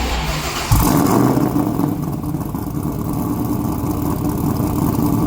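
Supercharged 5.3-litre V8 in a Chevrolet Colorado, heard through a 3-inch Y-pipe and Magnaflow straight-through muffler exiting at the bedside. It starts with a sudden burst less than a second in, then settles into a steady idle.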